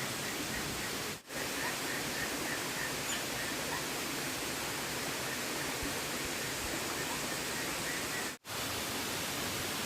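Steady rushing of a river, with faint quick high chirping over it. The sound drops out briefly twice, about a second in and near the end.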